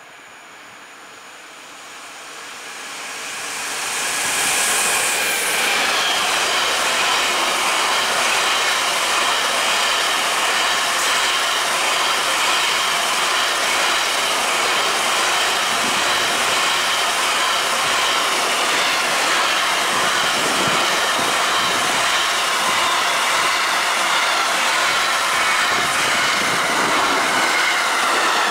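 Freight train hauled by a Bombardier Traxx E186 electric locomotive, carrying semi-trailers on its wagons, running through the station at speed. The noise swells over the first four seconds as the locomotive comes up and passes, then holds as a loud, steady rolling of wagon wheels on the rails with a high ringing tone over it.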